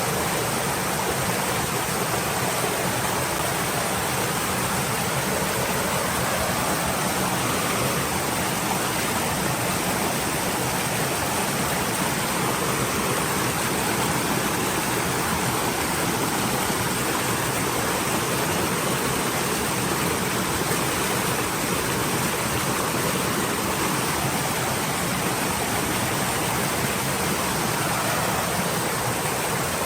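Stream water flowing steadily, an even rushing with no distinct splashes.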